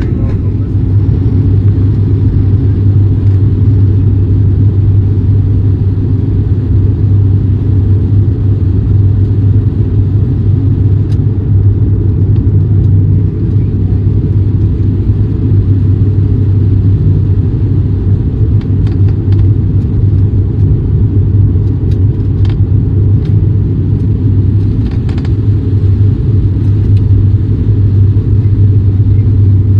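Steady low rumble of a moving vehicle heard from inside, with a strong constant hum underneath and a few faint clicks.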